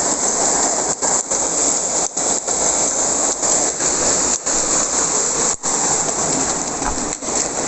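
Hailstorm, with hail falling hard: a loud, dense, steady rush of stones striking the ground.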